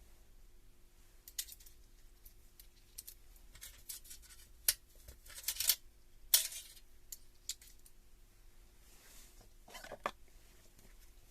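Scattered clicks and scrapes of hard parts being handled during work on a Hilti TE 80 rotary hammer, with a few sharper knocks near the middle and one more near the end.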